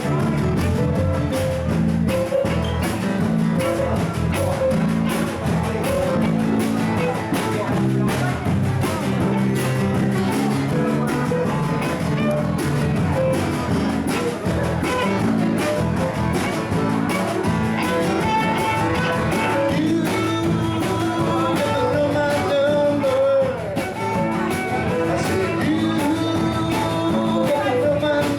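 Live band jam with guitars and drums playing a rock/blues-style groove, with some singing.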